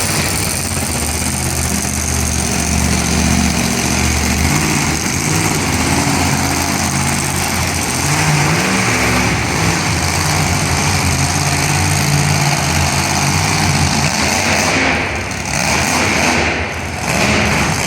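Monster truck engine running loud and revving, its pitch rising and falling, with two brief drops in level near the end as the throttle comes off.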